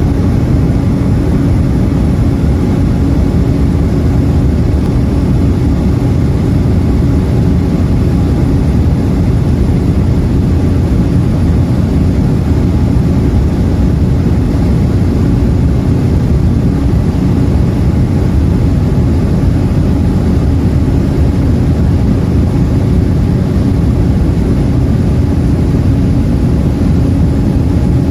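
Steady, loud drone of an aircraft in flight heard from inside the passenger cabin: engine and airflow noise, deepest in the low range with a faint steady hum over it, unchanging throughout.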